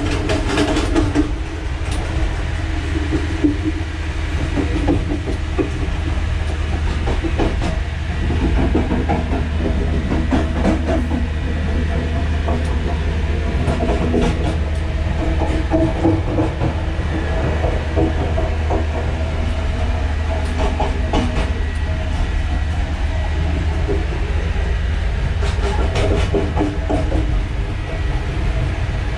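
Class S13 diesel multiple unit running along the track: a steady low rumble with scattered clicks of the wheels over rail joints.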